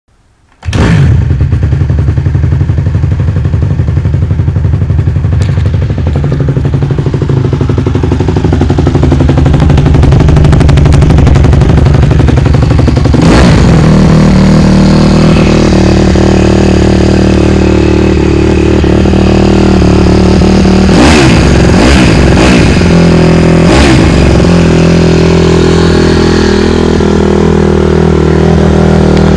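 2007 Honda CRF150R's 150cc single-cylinder four-stroke engine catching on a cold start about half a second in, then running loudly. Its note steps up about halfway through, and near the end there are two quick throttle blips, each rising and falling in pitch.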